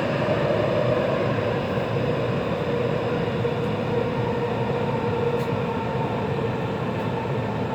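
Taipei Metro C341 train running, heard from inside the passenger car: a steady rumble of running noise with a faint constant hum.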